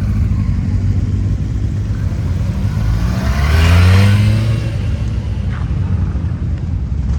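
Harley-Davidson V-twin motorcycle engines rumbling, with one bike accelerating about three seconds in: its pitch rises and it is loudest about four seconds in, then settles back to a steady rumble.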